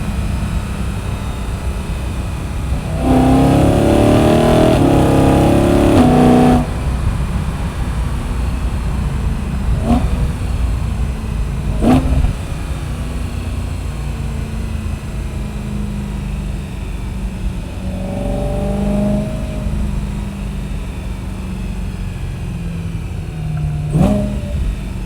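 E92 BMW M3's V8 running through its M Performance muffler while driving, mostly a steady cruising drone. About three seconds in it gets louder as the car accelerates for a few seconds, the pitch climbing in steps, then it drops back. It rises again more briefly later on, and a few sharp knocks come through along the way.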